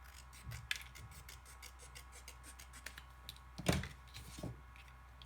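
Scissors snipping paper with a series of short crisp cuts while trimming a piece. One cut a little past the middle is louder than the rest.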